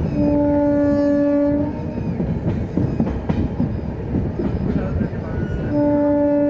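Indian Railways train horn sounding a steady single-pitched blast of about a second and a half, then sounding again near the end, over the rumble and clicks of a train running along the rails.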